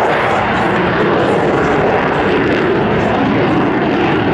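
Loud, steady engine noise of a display aircraft flying past.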